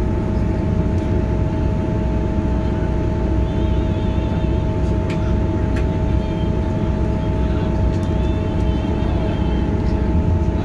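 Cabin noise of a Class 158 diesel multiple unit running along the line: a steady rumble from the underfloor diesel engine and wheels on the rails, with a steady two-note hum over it and a few faint ticks.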